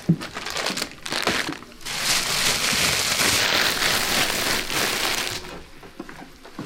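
Black plastic trash bag being handled, rustling and crinkling: irregular crackles at first, then a dense continuous rustle that fades about two-thirds of the way through.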